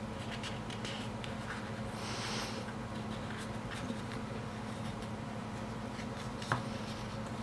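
Room tone with a steady low electrical hum, a brief rustle about two seconds in, scattered faint ticks, and one sharp click near the end.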